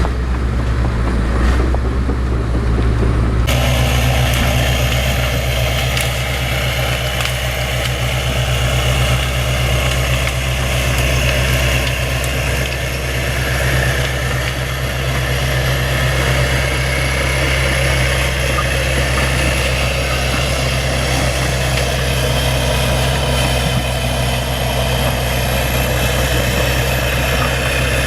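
Bulldozer's diesel engine running steadily with a low, even hum. About three and a half seconds in the sound shifts abruptly and a higher hiss joins it.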